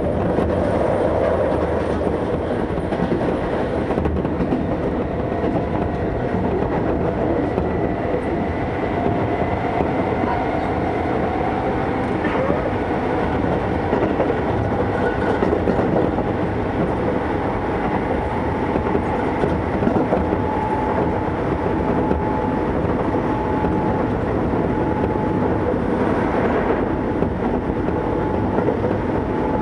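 Keisei 3400 series electric train running at speed, heard from inside the passenger car: a steady rumble of wheels on rail, with a whine that slowly rises in pitch.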